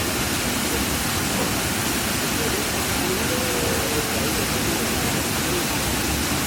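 Waterfall rushing steadily into a pool, with faint distant voices under it about a second and a half in.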